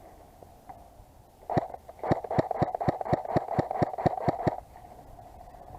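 Airsoft G36C rifle firing a rapid string of about a dozen shots, roughly five a second, starting about a second and a half in and stopping after about three seconds.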